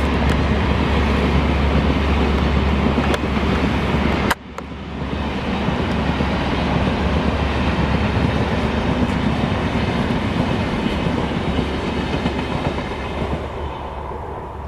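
A train running past on the track, with a heavy rumble and the clickety-clack of wheels over rail joints. The sound breaks off abruptly a little over four seconds in, picks up again at once, and fades away near the end.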